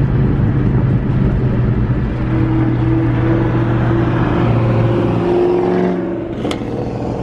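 Shelby GT500's V8 exhaust running loud at a steady throttle, a constant deep drone that eases off slightly near the end.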